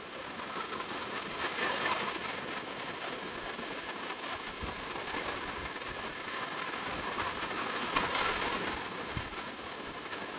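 Sea waves washing onto a beach, a steady rush that swells twice, about two seconds in and again near the eight-second mark.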